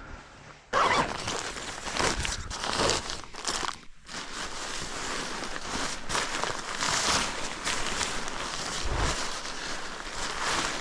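Tent fabric rustling and crinkling as the tent is unpacked and handled, with irregular scrapes and crunches throughout.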